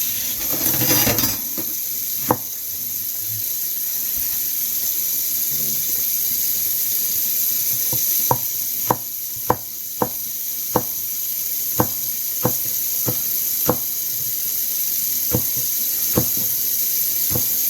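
Tap water running steadily with a brief splash in the first second, then a kitchen knife chopping on a cutting board in a dozen or so single strikes, up to about two a second, in the second half.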